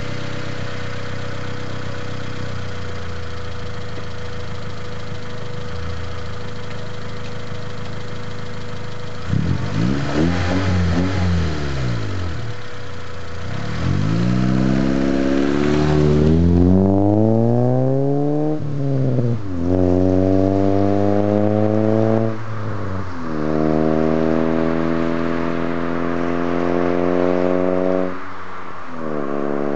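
Honda Accord with an Invidia N1 cat-back exhaust: the engine drones steadily, then the car passes about ten seconds in, and then pulls away at full throttle through the gears. The pitch climbs in each gear and drops at three upshifts.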